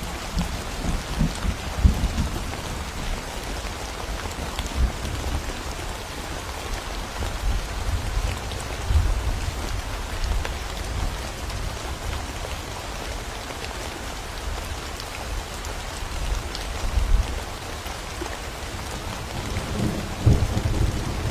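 Steady rain falling in a thunderstorm, an even hiss of drops throughout, with low thunder rumbling in the first couple of seconds and building again near the end.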